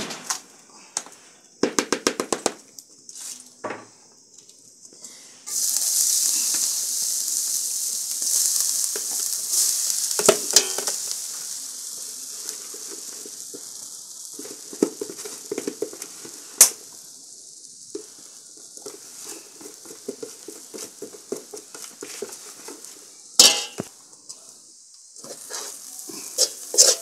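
A metal spoon clinks against a steel wok. About five seconds in, a sudden loud sizzle starts as crumbly fermented-flour dough goes into hot cooking fat, and it fades slowly while the spoon scrapes and stirs the dough, with a few sharp clinks against the pan.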